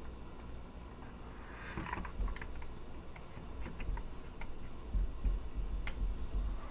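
Light, scattered clicks and a brief rustle of small parts of a plastic toy figure being handled and taken apart, with dull low bumps of handling in the second half.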